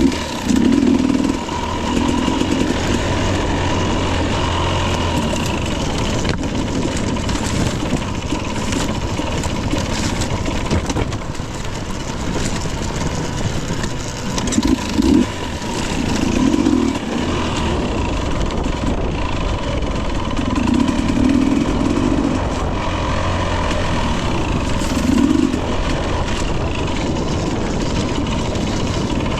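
2021 Husqvarna TE 250i, a fuel-injected two-stroke single, running under way with the throttle blipped up and down in repeated short surges, along with knocks and clatter from the bike on rough ground.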